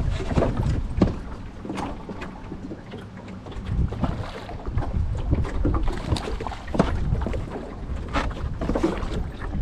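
Wind buffeting the microphone in gusts, with a low rumble that eases off in the middle and rises again near the end. Scattered light knocks and clicks run through it.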